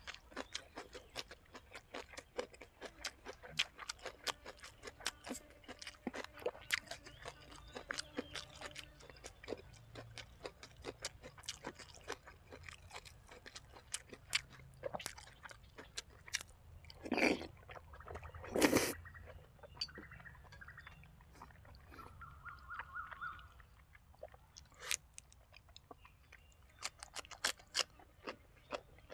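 Close-up chewing of braised pork leg and raw vegetables, a steady run of small wet mouth clicks and smacks. Two louder crunching bites come about a second and a half apart, a little past halfway.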